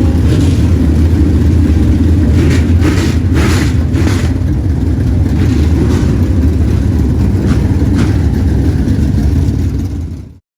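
Dirt-track race car engines running loud and steady at speed, with a few brief surges, fading out quickly near the end.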